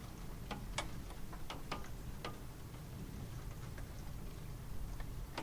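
Rain ambience: a soft steady patter with single drips ticking at uneven intervals, several in the first couple of seconds and one more near the end.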